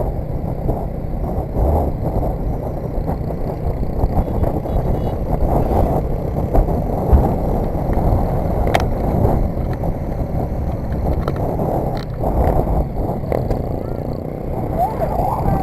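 Motorcycle riding at speed: a steady rush of wind noise over the rider's microphone, with the engine running underneath.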